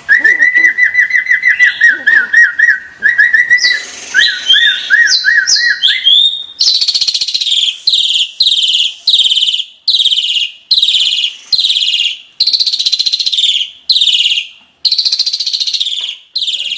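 Asian pied starling (jalak suren) singing: first a run of clear whistled notes with wavering trills, then about six seconds in a long series of harsh, rasping notes repeated a little over once a second.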